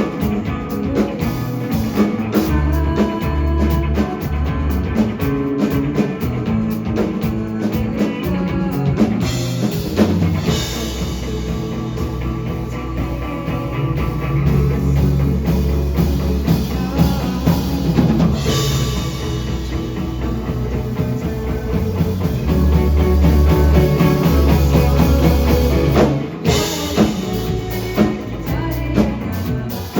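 Rock band playing live, with the drum kit prominent and a bass drum beat. The music grows louder in the last third, then drops back briefly about twenty-six seconds in.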